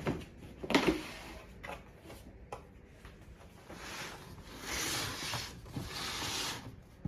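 Cardboard shoebox being handled and opened: a few light knocks and scrapes, then a couple of seconds of rustling.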